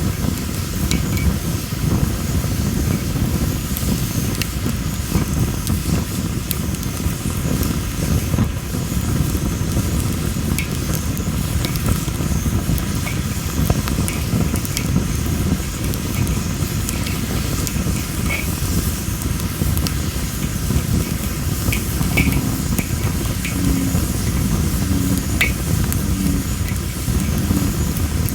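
Wood fire of well-dried masaki (Japanese spindle tree) logs burning, with a steady low rumble of flames and scattered sharp crackles and pops.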